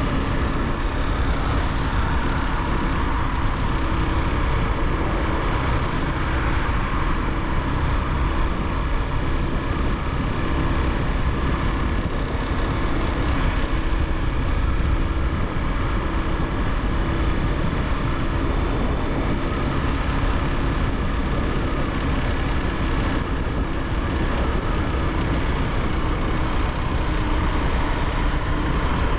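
Honda CBR300R's single-cylinder engine running at a steady speed under way, its note mixed into a steady rush of wind and road noise.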